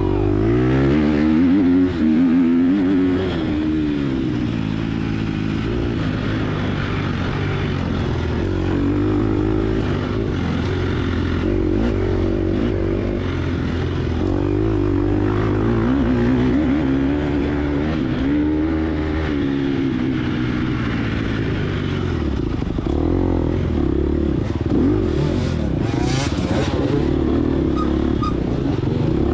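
Gas Gas EX250F single-cylinder four-stroke dirt bike engine under hard riding, revs climbing and dropping again and again as the throttle is worked. A few sharp knocks of clatter come near the end.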